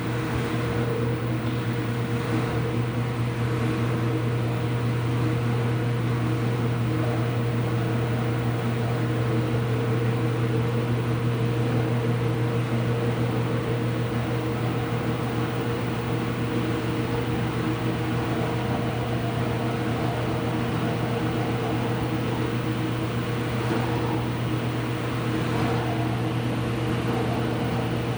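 Ipso washing machine running mid-cycle: a steady mechanical hum with a low drone and a few constant tones above it, with no change in pace.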